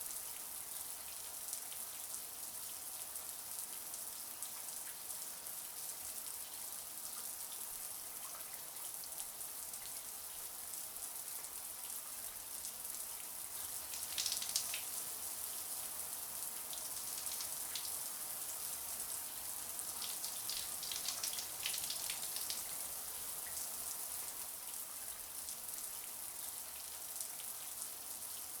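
Shower water running steadily, a high hissing spray pattering on a surface, with brief heavier splashes about halfway through and again some twenty seconds in.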